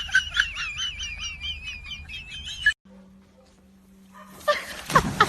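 High, rapid bird chirping with a wavering warble over it, about five notes a second, cut off abruptly a little past halfway. A brief louder sound follows near the end.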